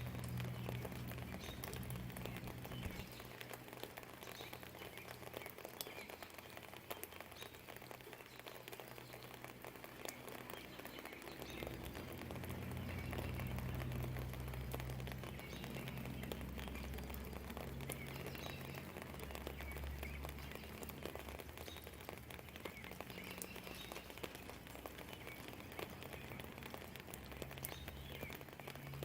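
Steady rain with drips tapping on surfaces, and faint birdsong chirping through it. A low, distant rumble swells in the middle and fades again.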